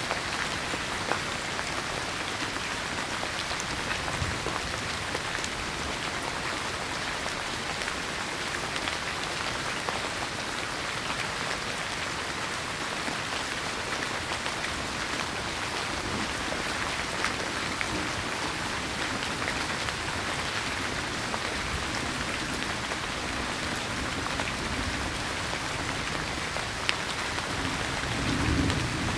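Steady rain falling, a continuous patter with scattered single drops ticking through it, and a brief low rumble near the end.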